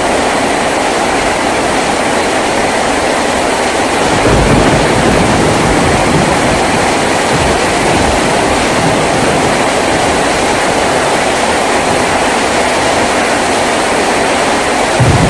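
Heavy rain falling steadily on a tin roof, a dense even hiss, with a low rumble swelling in about four seconds in.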